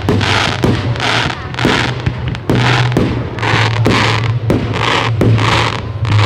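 Fireworks display: a rapid run of bangs, about two a second, each followed by a short crackling fizz from the bursting shells.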